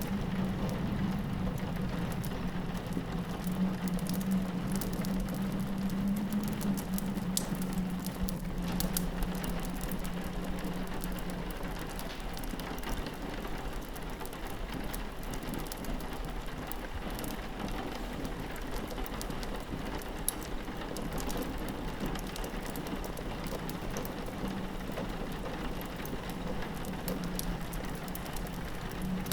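Rain pattering steadily on a window pane, with the sharp pops of a crackling wood fire scattered through it. Under both runs a low drone of howling wind, which fades partway through and comes back near the end.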